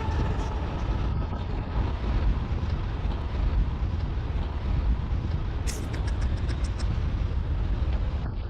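Steady low rumble of an airliner during a landing, with a quick run of clicks about six seconds in.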